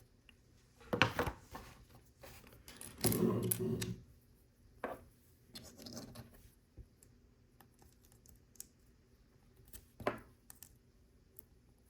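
Hands working with LEGO pieces and stickers: scattered scrapes, rustles and light plastic clicks. The loudest is a rustle about three seconds in that lasts about a second, with a shorter one about a second in and another near ten seconds.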